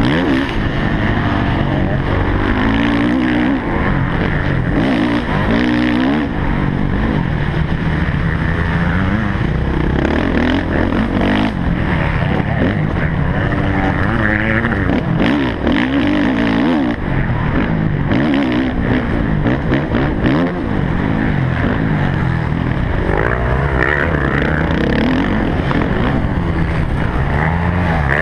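Motocross bike engine recorded on board the bike, its revs rising and falling again and again as it accelerates, backs off and picks up around the track.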